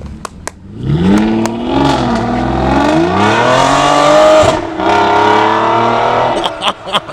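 Aston Martin DB9's V12 revving hard as the car accelerates away, its pitch climbing steeply. There is a brief dip about four and a half seconds in, as at an upshift, and then it climbs again. The engine sound drops away sharply about six seconds in.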